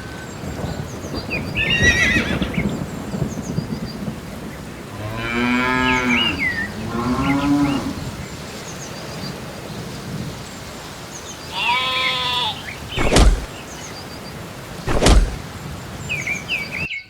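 Cattle mooing, three long calls, over short bird chirps. Two sharp knocks come in the second half.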